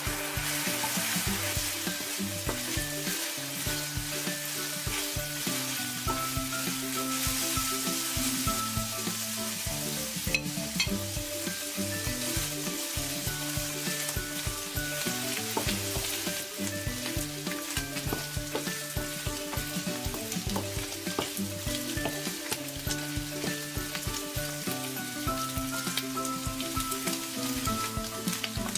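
Diced chicken breast sizzling as it fries in hot oil in a pan, stirred with a wooden spoon, with one sharp tap about ten seconds in. Soft instrumental music plays underneath.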